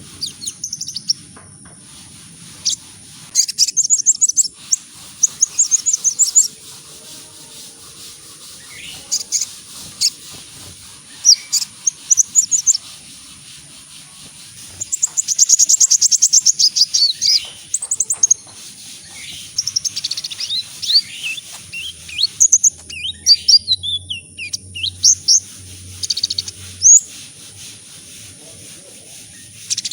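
Ruby-cheeked sunbird (kolibri ninja) singing: bursts of rapid, very high-pitched chirps and fast trills separated by short pauses.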